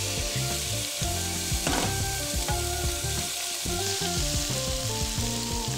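Shrimp frying in hot vegetable oil in a pan, a steady sizzle, while wooden chopsticks stir them.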